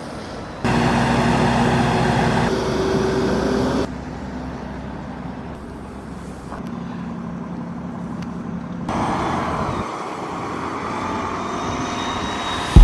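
Motor vehicle engines and road traffic, a steady hum with a few held tones, heard as several short clips joined by abrupt cuts.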